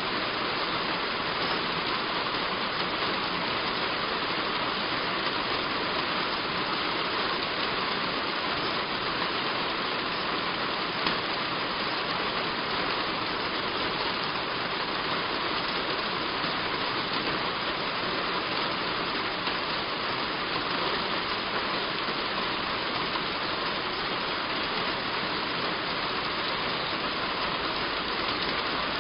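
Heavy rain falling steadily on a roof, an even hiss that does not let up.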